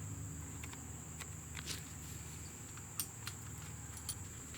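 Faint scattered clicks and light knocks of hand tools working the brake caliper pins loose, about six of them, over a steady low hum and a thin, steady high whine.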